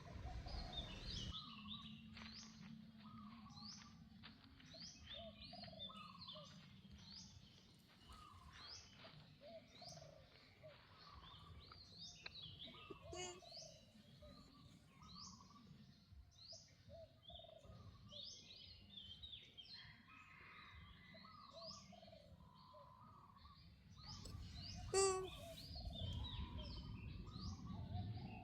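Faint chorus of small birds chirping, many short rising chirps repeating several times a second with lower calls beneath. About 25 seconds in there is one sharp, loud sound, and a low rumble of noise comes up near the end.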